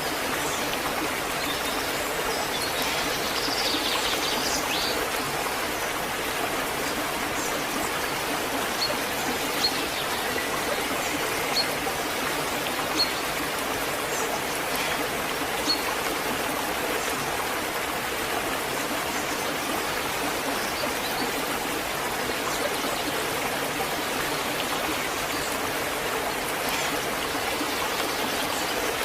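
Waterfall: steady rushing water. A few brief, sharp, high sounds come through it between about 9 and 16 seconds in.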